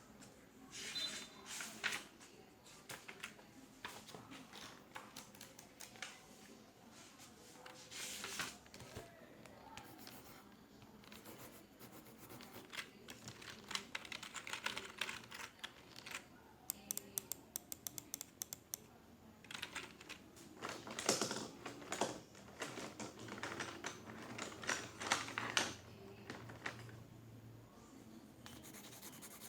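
Typing on computer keyboards, with keystrokes coming in irregular bursts. There is a quick, even run of keystrokes about two-thirds of the way through and a denser stretch of typing after it.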